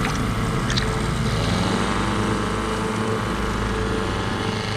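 Small outboard motor running steadily on a dugout canoe.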